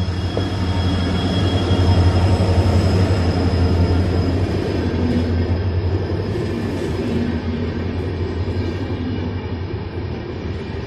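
Passenger train coaches rolling past at close range: a heavy, steady rumble of wheels on rail, loudest about two to four seconds in and easing slightly after. A thin high whine rides on it during the first few seconds.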